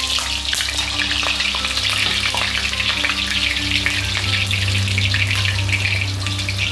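A block of tofu deep-frying in hot oil in a wok, crackling and sizzling steadily.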